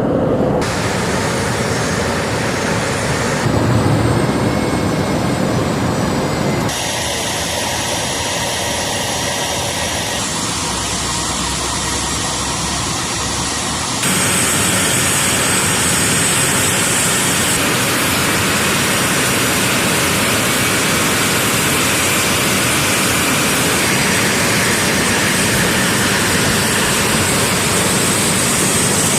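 Jet engine noise from the A-10 Thunderbolt II's twin General Electric TF34 turbofans: a steady rushing with a thin high whine. The sound changes abruptly several times in the first half, then runs steady.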